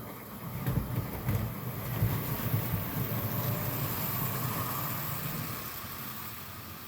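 Model train running along the layout's track, its motor and wheels making a low rumble with a few light clicks; it swells as the train comes close and fades as it moves away.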